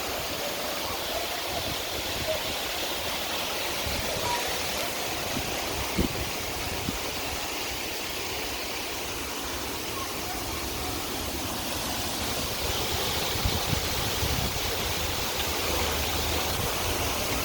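Waterfall: falling water rushing in a steady, even noise.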